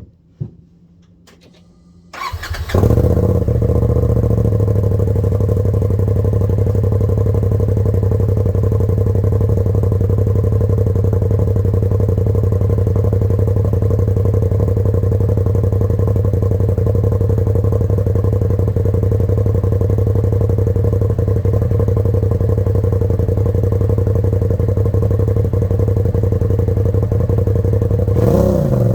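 Engine with a newly fitted Force Turbos aftermarket exhaust cranks briefly and starts about two seconds in on its first start, then idles steadily. Near the end the revs rise briefly.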